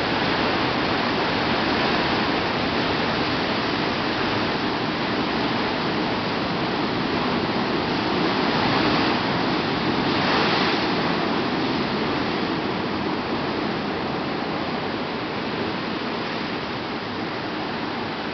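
Pacific Ocean surf: a steady rush of breaking and washing water. It swells briefly about halfway through and eases off slowly toward the end.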